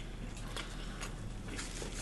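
Faint chewing and wet mouth clicks from someone eating, over a low steady hum.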